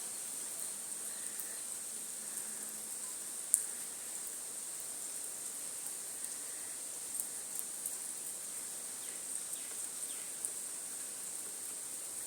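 Steady rain hiss with occasional sharp ticks of drops striking something close by, the loudest about three and a half seconds in.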